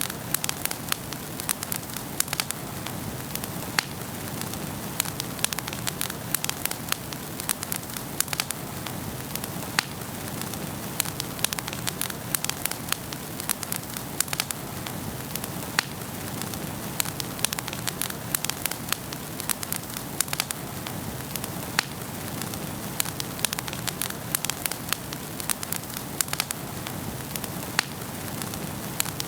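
Wood fire burning in a home fireplace: a steady low hiss and rumble of flames with frequent sharp, irregular crackles and pops of the burning logs.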